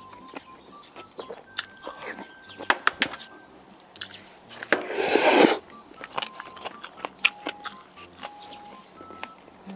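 Close-miked chewing and mouth clicks of someone eating grilled bulgogi, with one loud sucking sound lasting about a second near the middle. A faint simple background melody plays under it.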